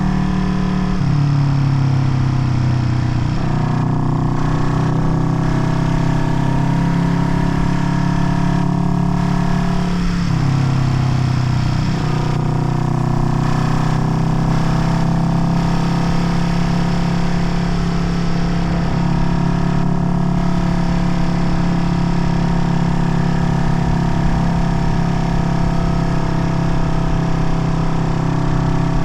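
Vintage Honda CB parallel-twin motorcycle engine running while being ridden. Its note drops about a second in and again around ten seconds, then climbs back as the rider changes throttle or gear.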